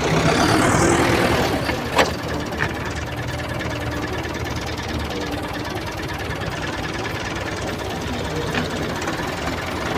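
Toy tractor running along, a steady engine-like rattle with a sharp click about two seconds in.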